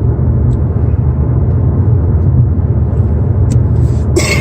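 Steady low rumble of a car driving, heard from inside the cabin, with a few faint ticks and a short hissy sound near the end.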